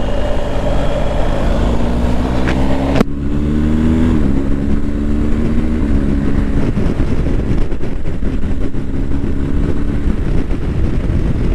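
BMW GS motorcycle's boxer-twin engine running under way, with wind rumble on the onboard microphone; about three seconds in there is a sudden break, after which the engine pitch climbs for about a second and then holds steady.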